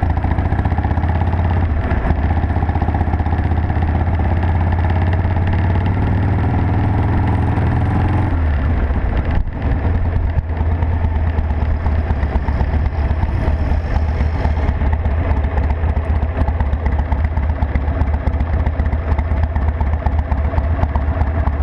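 Harley-Davidson Sportster XL883's air-cooled V-twin engine running, its pitch climbing slowly for the first eight seconds or so, then dropping back to a steady idle.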